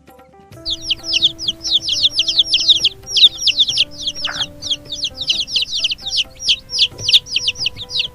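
Chicks peeping: a dense run of short, high, falling cheeps, about four or five a second, starting about half a second in.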